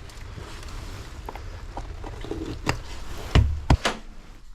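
A few sharp knocks and thumps over a low steady rumble, the loudest two heavy thumps about three and a half seconds in.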